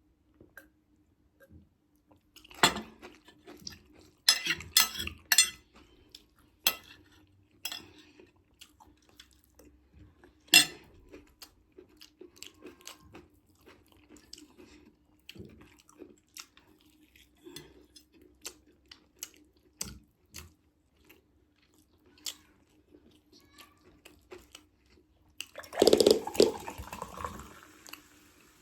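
Close-up eating sounds: cutlery clicking against a plate and chewing, in scattered short bursts over a faint steady hum. A louder noise lasting about two seconds comes near the end.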